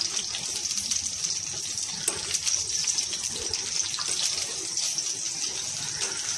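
Cashew nuts sizzling in hot ghee in a small pan, a steady hiss with small crackles, while a metal spoon stirring them clicks against the pan now and then.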